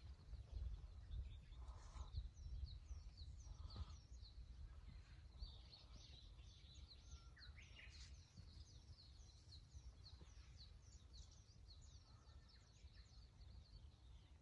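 Faint birdsong: many short, high chirps repeating throughout, over a low rumble.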